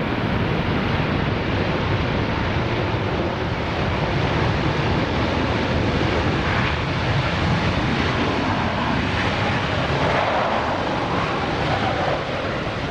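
Airbus A380 landing, its four jet engines making a steady, loud rush of noise, with wind buffeting the microphone.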